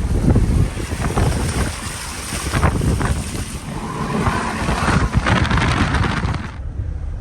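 A vehicle driving through floodwater, water rushing and spraying against it over a low engine and road rumble, in surges of hiss that ease off near the end.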